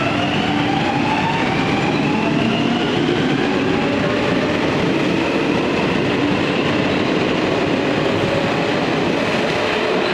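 Electric train running and picking up speed: a steady rumble of wheels on rail, with several motor tones that climb slowly in pitch.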